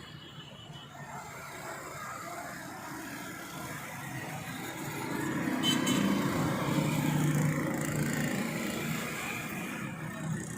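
Tractor engine running, getting louder about halfway through and easing off again near the end.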